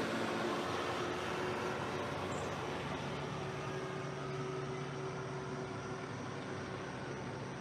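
A motor engine running with a steady hum, slowly fading as it moves away.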